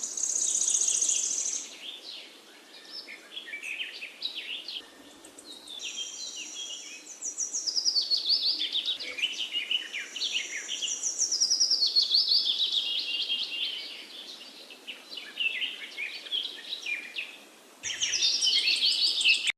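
Small pet birds chirping and chattering. Many high calls and trills overlap and swell in waves, dip briefly near the end, then break into a loud burst of chirps.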